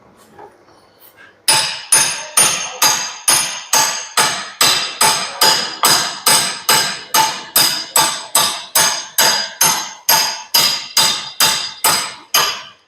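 Steady hammer blows on steel, about two and a half a second, each with a metallic ring, starting about a second and a half in: knocking loose a badly stuck axle nut on a car.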